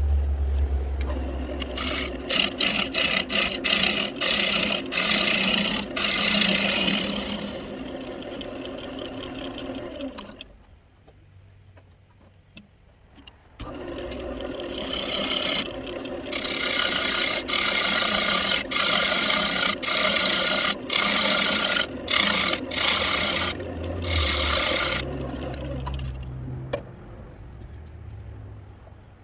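Wood lathe running with a walnut piece spinning on it, a tool or abrasive scraping against the turning wood in long passes. The lathe winds down about ten seconds in, is quiet for about three seconds, then starts again and the scraping resumes before fading near the end.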